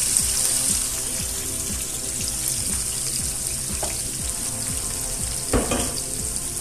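Chopped onions, tomatoes and peppers sizzling in hot oil in a frying pan, a steady high hiss. A short thump about five and a half seconds in.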